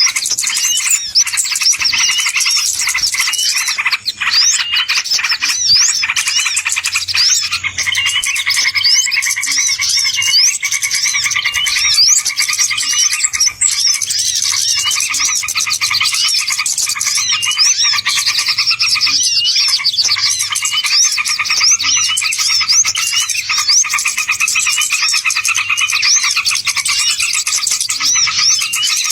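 Bird-lure (pikat) recording: a dense chorus of small birds chirping rapidly and continuously, many short rising notes overlapping, over a steady high background hum of calls.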